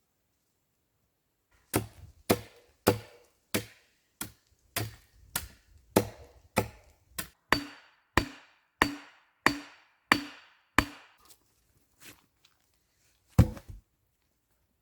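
Repeated chopping strikes into wood, about sixteen even blows a little over half a second apart, then a pause and one last strike near the end.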